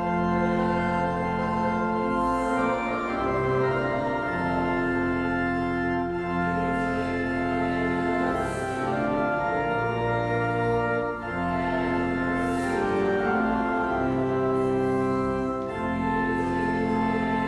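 Organ playing a hymn in slow, held chords that change every second or two.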